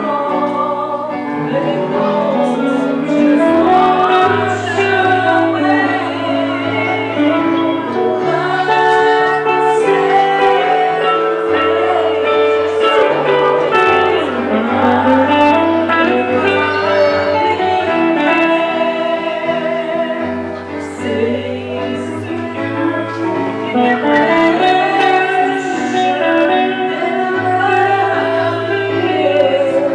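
Gospel music in a church service: singing over instrumental backing, with held bass notes changing every second or two.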